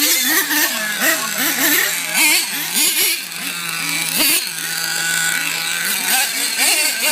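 Several racing monster trucks' engines revving up and down over one another, the pitches rising and falling in quick overlapping sweeps while one engine holds a steady note for a second or two at a time.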